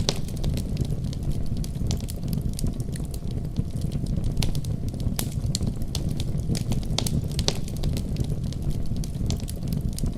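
Wood fire crackling with frequent sharp, irregular pops over a steady low rumble of a winter storm.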